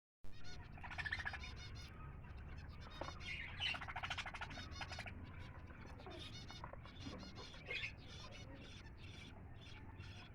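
Parrots chattering in bouts of rapid, high chirps over a low steady hum.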